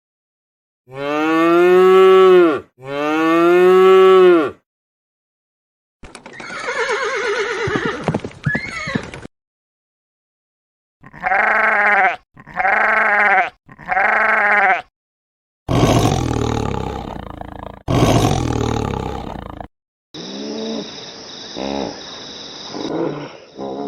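A string of separate farm animal calls, each cut off cleanly by a short silence. First come two long calls that rise and fall in pitch, then a wavering call, three short calls in quick succession, two deeper calls, and a final, fainter clip.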